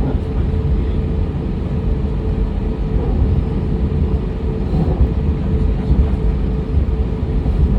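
Steady low rumble inside an airliner cabin on the ground before takeoff, from the jet engines and airframe, with a faint steady hum above it.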